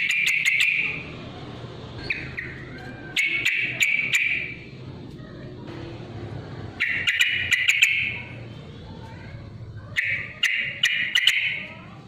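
Yellow-vented bulbul (trucukan) singing its loud, bubbly challenge song in short phrases of about a second, four times, roughly three seconds apart.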